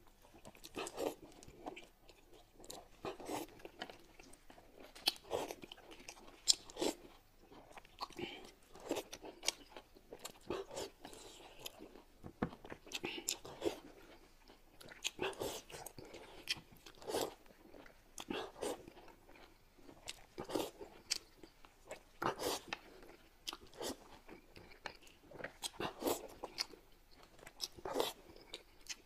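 Close-up eating sounds: chewing, biting and mouth smacks as dumplings are eaten, in short irregular bursts with small clicks.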